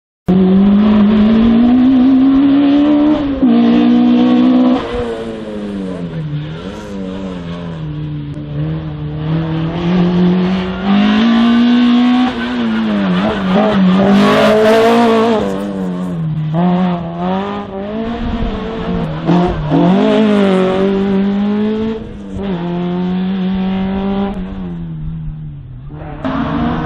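Race car engine revving hard and easing off again and again as it is driven through a slalom course, its pitch climbing and dropping with quick gear changes.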